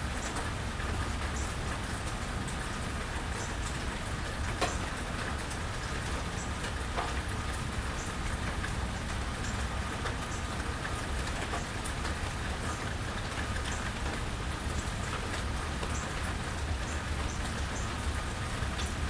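Steady rain falling on a porch, with individual drops ticking close by, one louder tick about four and a half seconds in.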